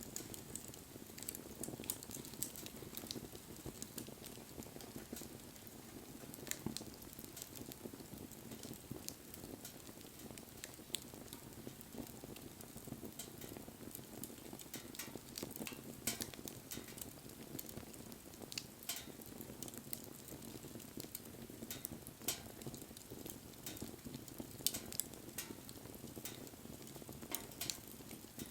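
Wood fire burning, with irregular sharp crackles and pops over a low, steady rush of flame.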